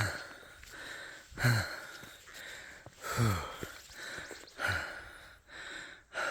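A man breathing hard, out of breath from the climb, with a deep breath roughly every second and a half, each breath out sliding down in pitch.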